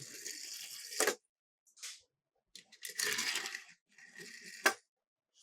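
Small die-cast toy cars rolling and rattling down a plastic slope in short runs, two of which end in a sharp clack, about a second in and near the end.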